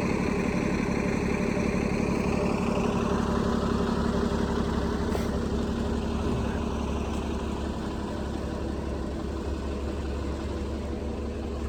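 An engine idling with a steady low hum that eases slightly in the second half.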